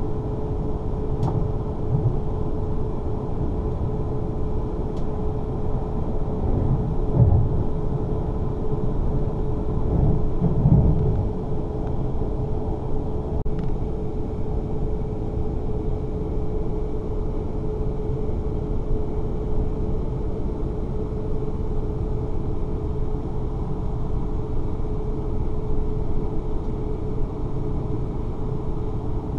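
Running noise inside the passenger saloon of a South Western Railway Class 444 Siemens Desiro electric train under way: a steady low rumble with a constant hum. Heavier rumbles come through around seven and again about ten seconds in.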